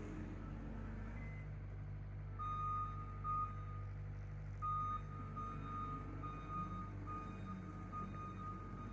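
Tractor engine running steadily under load while power raking, with a high-pitched reversing alarm beeping from about two and a half seconds in as the machine backs up.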